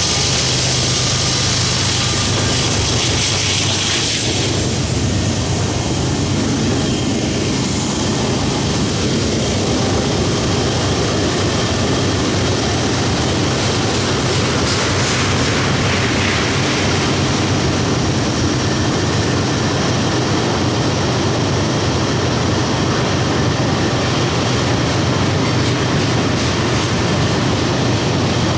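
Norfolk Southern diesel freight locomotive running past with a steady, loud engine drone, followed by a long string of loaded ethanol tank cars rolling by with continuous wheel and rail noise.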